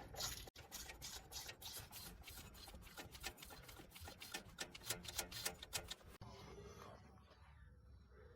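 Priming lever of the GAZ 21's mechanical fuel pump worked by hand, a fast run of faint clicks as fuel is pumped up into the carburettor. The clicking cuts off about six seconds in.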